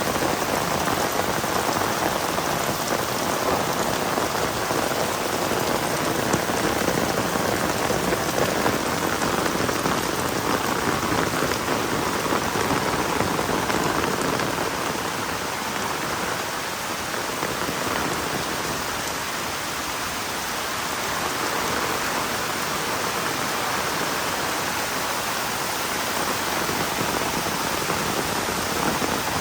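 Heavy rain falling steadily, a dense even hiss of drops hitting the ground and surfaces, easing slightly about halfway through before picking up again.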